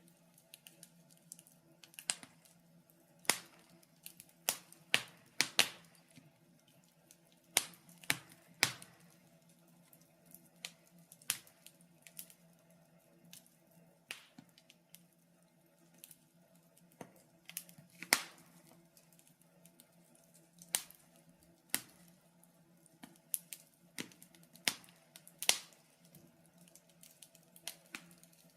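Wood fire crackling in a fireplace: irregular sharp pops and snaps, some loud and some faint, at uneven intervals, over a faint steady low hum.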